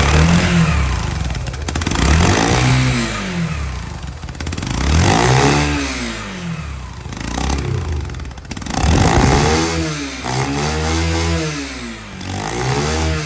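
Motorcycle engine revved several times through an inner tube fitted over the exhaust outlet, its pitch rising and falling with each blip of the throttle.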